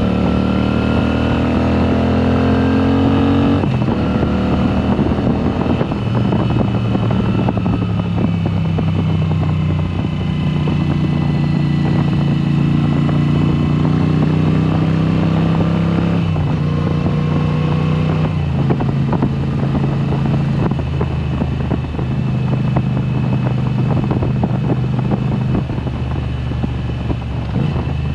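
2022 Moto Guzzi V7 Special's air-cooled transverse V-twin running loud through a Mistral exhaust with the dB killers removed. It rises in pitch under acceleration for about three seconds and drops sharply at a gear change, then runs at fairly steady revs with several smaller shifts in pitch.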